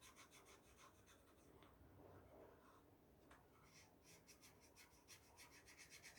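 Faint scratching of a felt-tip marker drawing on cardboard: two spells of quick short strokes with a pause of a couple of seconds between them.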